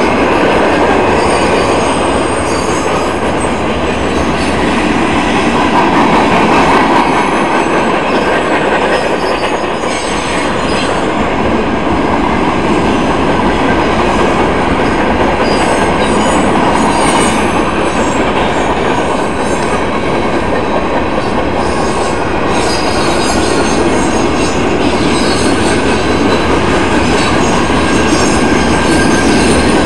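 Freight train cars rolling past with a loud, steady rumble of wheels on rail, and high-pitched wheel squeal that comes and goes.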